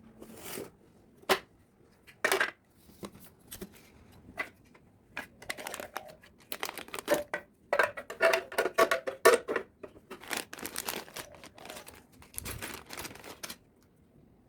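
Packaging being unwrapped by hand: an irregular run of rustling, crinkling and tearing noises with a few sharp clicks, busiest in the middle.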